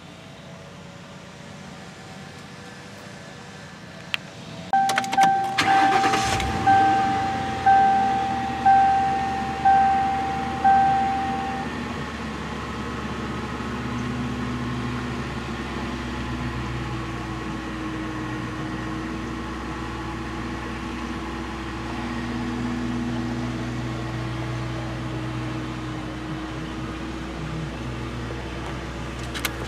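Ford 4.6-litre V8 of a 1997 Thunderbird LX started with the key: a click, then a brief crank and catch about five seconds in. A dashboard warning chime sounds about once a second for several seconds, and the engine then settles into a steady idle around 1,000 rpm.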